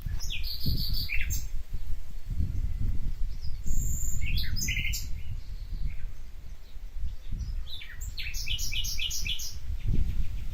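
Several songbirds calling and chirping in short high phrases, with a quick run of about seven repeated notes near the end. A steady low rumble lies underneath.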